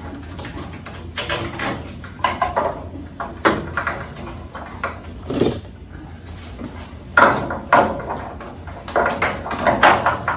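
Irregular clatter and scraping of metal parts being handled, as a crumpled piece is worked through an opening in the truck.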